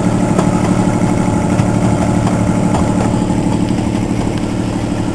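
Park ride train's engine running steadily as the train travels, a low even hum with a fast regular pulse, heard from on board.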